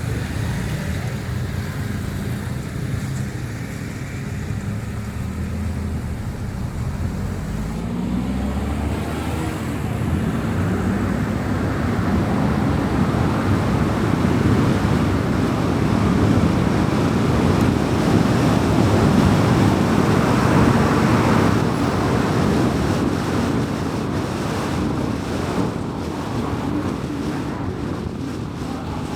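A car driving, its engine and tyre noise on the road steady throughout. The engine note rises about a third of the way in as the car speeds up, and the road noise builds to its loudest just past the middle, then eases off.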